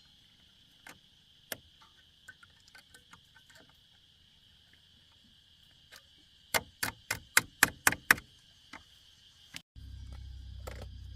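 Steady high-pitched insect drone with scattered faint clicks. Partway through comes a quick run of about eight sharp knocks, about four a second. Near the end the drone cuts off and a low rumble takes over.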